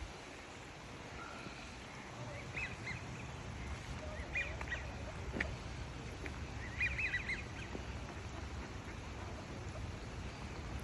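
Waterfowl calling in three short clusters of quick calls, over a low steady rumble.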